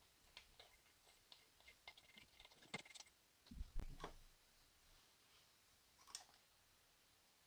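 Faint, scattered clicks and light taps, with a soft low knock about three and a half seconds in.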